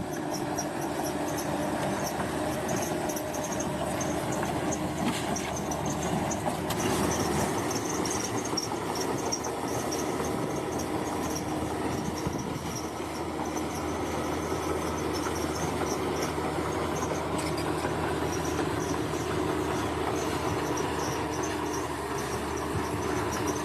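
Diesel engine of heavy earthmoving machinery, a bulldozer, running steadily under load, with a continuous mechanical clatter.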